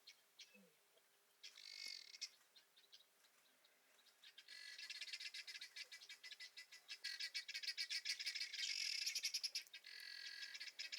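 Wild birds singing: a short burst of rapid high chirps about a second and a half in, then a long, dense run of fast repeated chirps from about four and a half seconds on.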